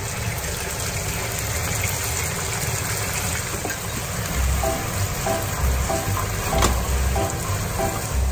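Diced bacon sizzling as it fries in a frying pan, stirred with a wooden spatula. Background music with a steady beat comes in about halfway through.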